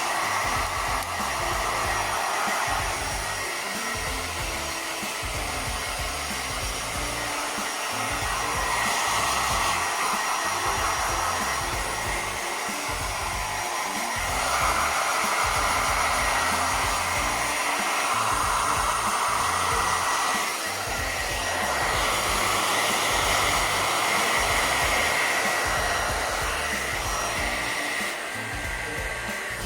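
Hair dryer blowing steadily, starting up right at the beginning, with a thin high motor whine over the rush of air. The air noise swells and eases every few seconds.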